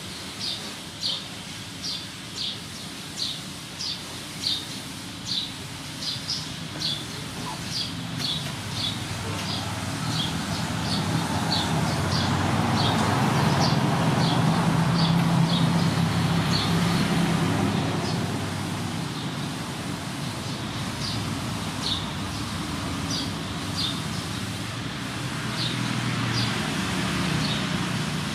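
A bird chirping over and over, short high chirps about one or two a second, thinning out later. A vehicle engine rumbles up in the middle, loudest about halfway through, then fades.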